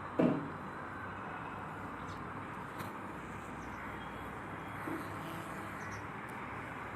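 Steady outdoor background hiss, with one short loud falling sound just after the start and a couple of faint ticks later.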